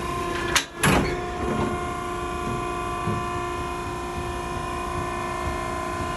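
Maren cardboard baler's hydraulic power unit running with a steady hum while the platen is held up. There are two sharp knocks just under a second in.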